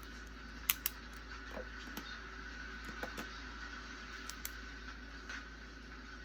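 Steady rain sound with scattered light clicks and taps, the two sharpest close together just under a second in.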